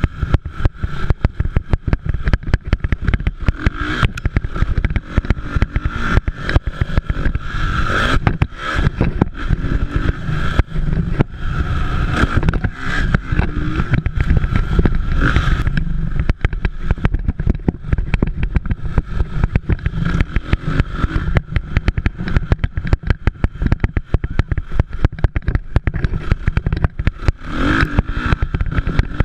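Motocross dirt bikes racing on the track, their engines revving and swelling as they pass, then fading, several times. A constant heavy low rumble and crackle runs under them.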